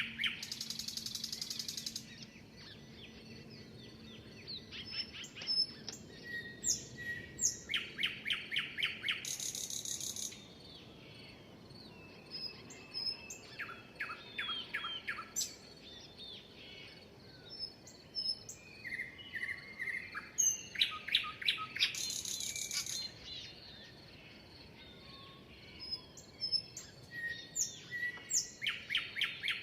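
Songbirds singing. One bird repeats its phrase about four times: a quick run of sharp notes that ends in a buzzy high trill about a second long. Other birds chirp softly in the gaps.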